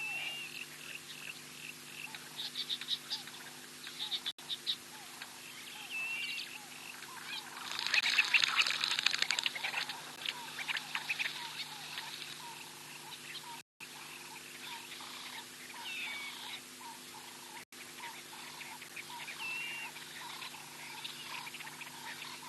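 Wild birds calling outdoors: short whistled notes throughout and a loud burst of rapid chattering about eight seconds in. A steady low hum runs underneath, and the sound drops out for a moment a few times.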